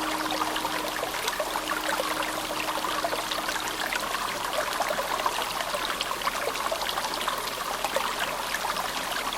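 Clear spring-fed stream running over a shallow bed, a steady wash of many small splashes and trickles.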